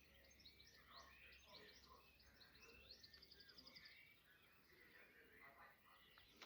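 Several small birds singing faintly: overlapping chirps and quick rattling trills.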